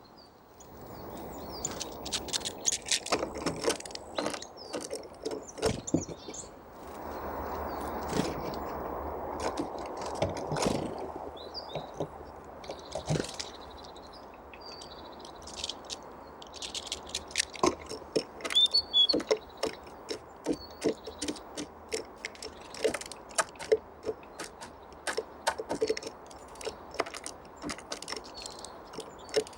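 Tits and nuthatches pecking and hammering at seeds: a long irregular run of sharp taps and clicks, with brief high call notes here and there.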